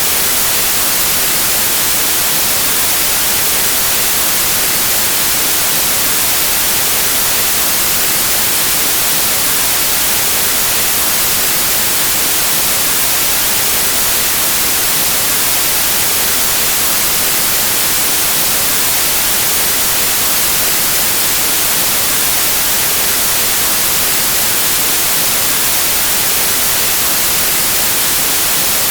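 Steady white noise: an even static hiss, brightest in the high frequencies, with no change in level.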